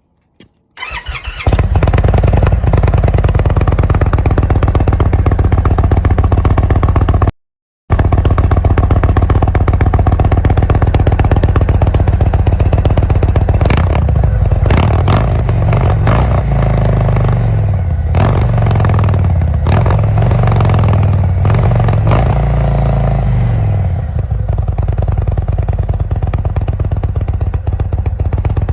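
2021 Indian Roadmaster's Thunderstroke 116 V-twin, breathing through Stage 1 oval slip-on mufflers, starting about a second in and settling into a loud idle. It is revved several times in the middle, the pitch rising and falling with each blip, then drops back to idle.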